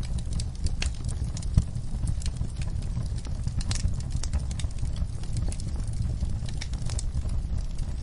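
Fire in a fireplace crackling, with irregular sharp pops over a steady low rumble of the flames. One louder pop comes about a second and a half in.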